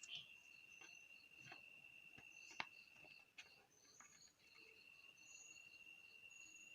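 Faint insects chirring: a steady high buzz that breaks off about three seconds in and resumes a second and a half later, with a lighter pulsing chirp above it. A few soft clicks come through, the sharpest just over two and a half seconds in.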